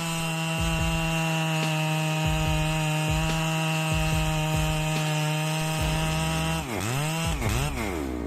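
Husqvarna 3120XP 119cc chainsaw engine held at a steady high rev for about six and a half seconds, then the throttle is let off and blipped twice, the revs falling and rising each time.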